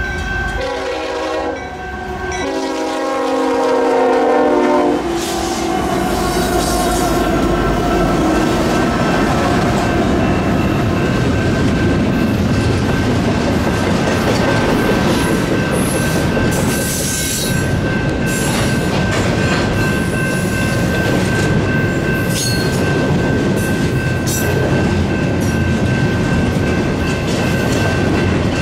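Freight locomotive's air horn sounding for the crossing for about five seconds, dropping in pitch as it passes. A double-stack intermodal train then rolls through with a steady rumble of wheels and clicking over the rail joints, while the grade-crossing bells ring throughout.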